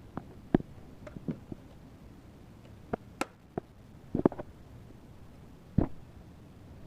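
Irregular light clicks and taps from small drone parts being handled, with louder knocks about half a second in, around four seconds in and just before six seconds.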